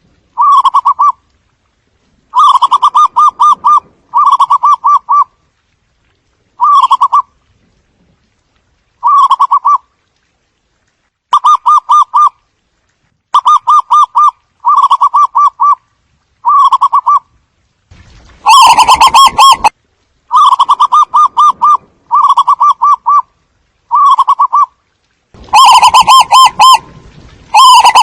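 Zebra dove cooing: short phrases of rapid staccato coo notes, repeated every second or two. The calls become louder and distorted a little past the middle and again near the end.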